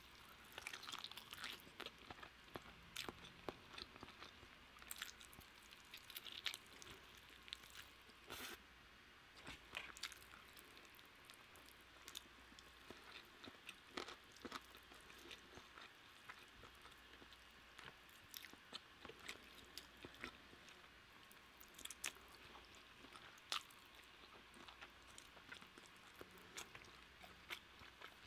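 A person chewing a mouthful of roast chicken, quiet and close to the microphone, with irregular soft mouth clicks and smacks.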